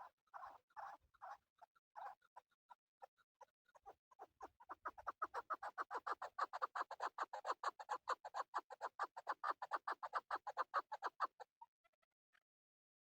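Male chukar partridge calling: a few scattered clucking notes, then from about four seconds in a fast, even run of chuck notes, several a second, that builds in loudness and stops suddenly near the end.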